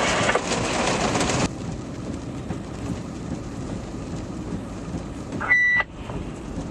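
Two-way radio hiss that cuts off abruptly about a second and a half in, as the squelch closes after a transmission, leaving the steady low rumble of the fire vehicle running. Near the end comes a short burst of noise with a single high radio beep.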